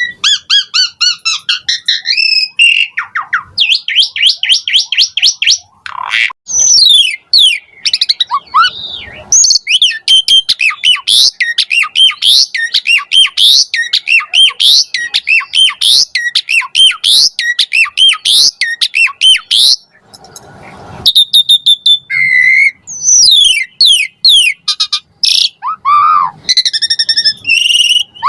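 Pied starling (jalak suren) singing hard in a varied stream of sweeping whistles, harsh squawks and fast runs of repeated notes, broken by a short pause about two-thirds of the way through.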